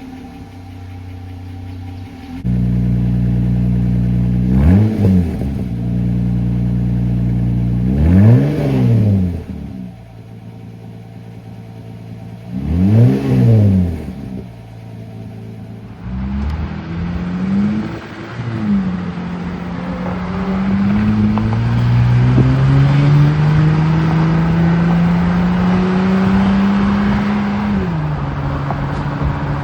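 Jeep Gladiator engine running through an exhaust with the middle muffler deleted and both resonators kept: it idles and is revved briefly three times, then pulls under way with the pitch rising steadily for several seconds before dropping near the end.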